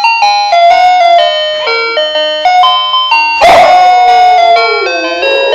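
A tune played note by note on a keyboard. About halfway through, a dog joins in with one long howl that slides down in pitch, singing along with the music.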